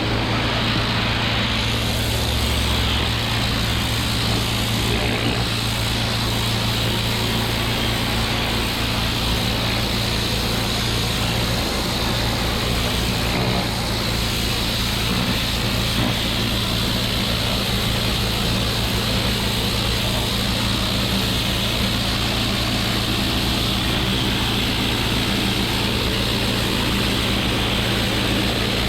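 Pressure washer engine running steadily, with the hiss of the high-pressure water jet spraying.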